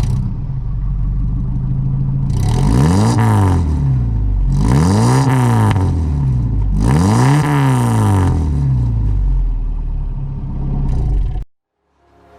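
1973 Ford F-250 pickup engine idling, revved three times with the pitch climbing and falling back to idle each time, then cutting off suddenly.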